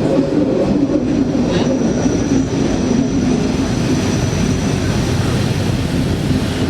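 Train running along the line with a steady rumble, joined by a thin, steady high whine from about a second and a half in.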